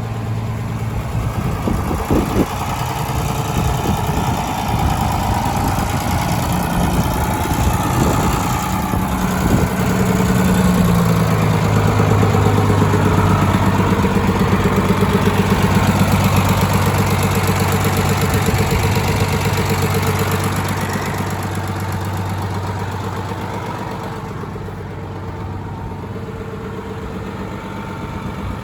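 1981 International Harvester 786 tractor's six-cylinder diesel engine running steadily. It grows louder about ten seconds in and eases back down after about twenty seconds.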